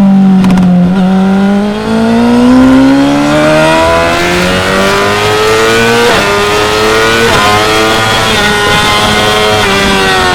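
2016 Yamaha R6's inline-four engine on track: the note falls as the bike slows, then climbs steadily under hard acceleration, with quick upshifts about six and seven seconds in, each dropping the pitch before it rises again.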